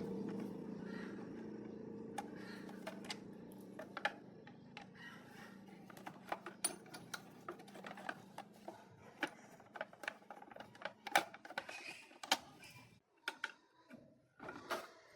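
A low hum fades away over the first several seconds, while scattered light clicks and taps of small hard objects being handled go on, growing more frequent in the second half.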